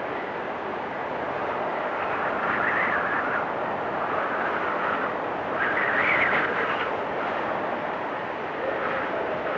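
Blizzard wind blowing in swelling gusts, the strongest about three and six seconds in.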